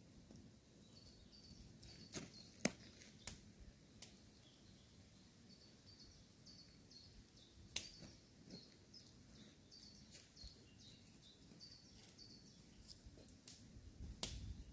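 Near silence in woodland, with a faint bird chirping in short, quickly repeated high notes. A few sharp clicks and taps stand out, the loudest about two and a half seconds in.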